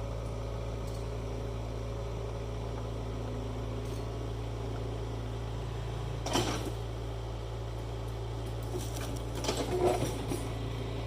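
Hitachi 75 excavator's diesel engine running steadily with a low hum, with a sharp knock about six seconds in and a brief clatter of metal knocks near the end.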